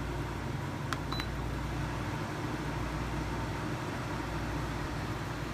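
JHS 8,000 BTU portable air conditioner running with a steady hum. About a second in, two clicks of its control-panel buttons, the second with a short beep.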